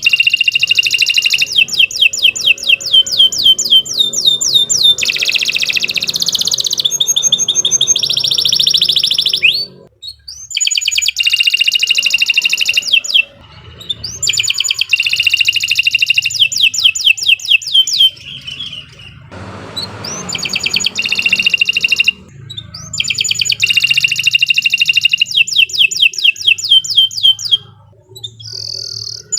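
Domestic canary singing long, loud phrases of rapid trills and rolls, broken by short pauses. A brief hiss comes about two-thirds of the way through.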